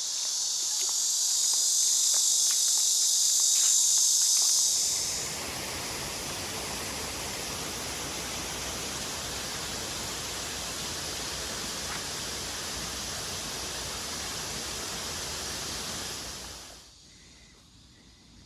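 Cicadas buzzing loudly for the first four seconds or so. Then a steady rushing noise with no clear tones takes over and runs until near the end, when it drops away suddenly to a quiet background.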